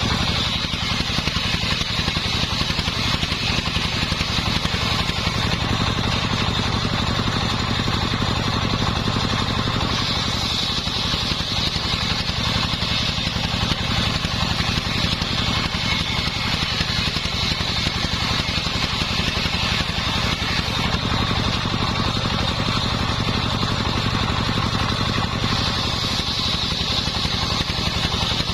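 Engine-driven, home-built circular saw machine running steadily as it saws boards from kenanga wood. The engine drone stays constant, while a high whine from the blade grows louder and softer in stretches of several seconds as it cuts.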